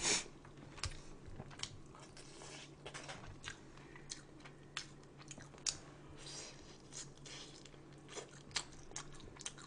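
Faint close-up chewing, a person eating with scattered crisp clicks and small crunches at irregular intervals. A low steady hum runs underneath.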